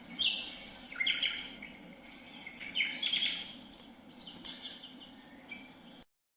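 FUNYKICH white noise machine playing a recorded birdsong track through its small speaker: repeated chirps and short trills over a faint steady hum, cutting off suddenly near the end.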